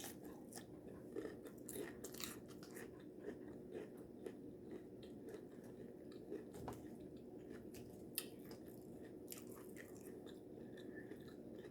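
Faint eating sounds: chewing and light crunching, heard as scattered small clicks over a low background.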